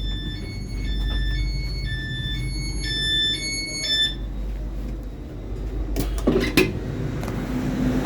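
Electronic beeping that alternates between a higher and a lower note, repeating for about the first four seconds over a steady low train hum. Two sharp knocks follow about six seconds in.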